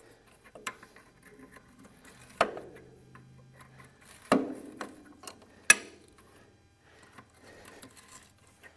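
A wrench worked back and forth on a seized, rusted bolt, giving a handful of scattered sharp metal clicks and clanks, the loudest about two-thirds of the way through. The bolt is one that the mechanic believes has twisted off.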